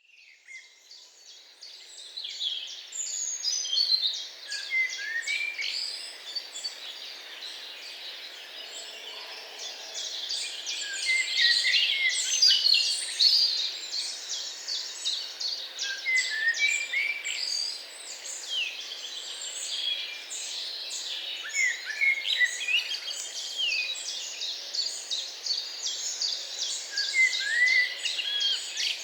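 Several birds singing and chirping together in a dense chorus of high, quick notes, with one curved song phrase coming back about every five seconds. The sound fades in over the first couple of seconds.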